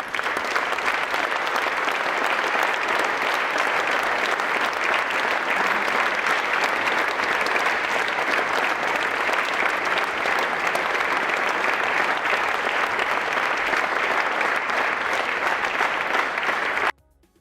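Audience applauding steadily, a dense crowd of clapping hands, cut off abruptly near the end.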